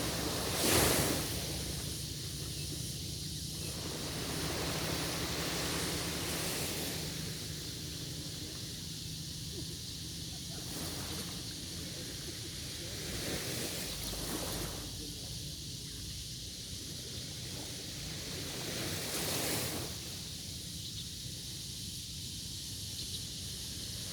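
Sea waves washing onto a beach, a steady rush of surf that swells every five or six seconds, with some wind on the microphone.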